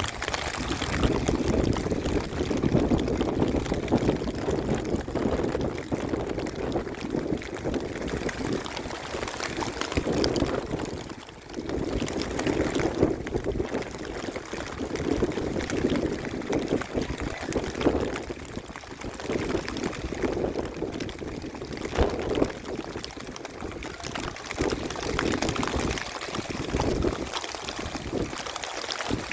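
Heavy rainwater pouring and splashing steadily, with a brief lull about eleven seconds in.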